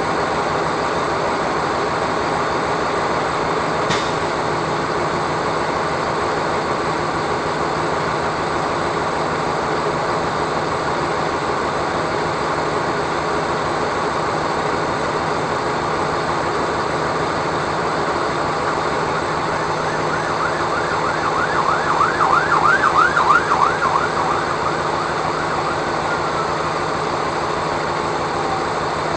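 Steady drone of a vehicle engine and road noise, with an emergency-vehicle siren yelping rapidly for a few seconds about two-thirds of the way through, followed by a slowly falling tone.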